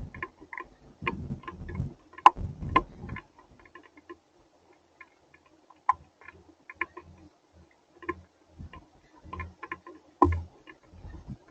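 Hailstones and raindrops striking surfaces in irregular ticks and taps. They are heavier for the first three seconds or so, then thin out to scattered drops.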